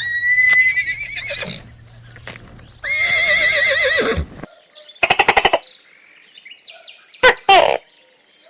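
Horse whinnying: two long, high, quavering whinnies, the second falling away at its end, followed by a short burst of rapid pulses and two brief calls near the end.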